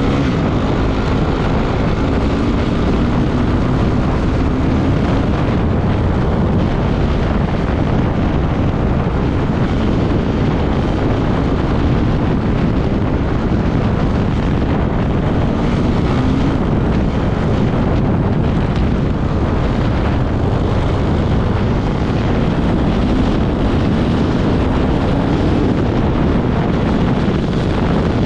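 Off-road motorcycle engine running under load at speed, its pitch wavering as the throttle changes, mixed with heavy wind buffeting on the microphone.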